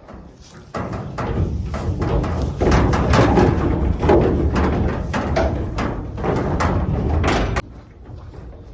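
Livestock trailer knocking and rattling as lambs are loaded, a busy run of sharp clatters over a low rumble that stops abruptly near the end.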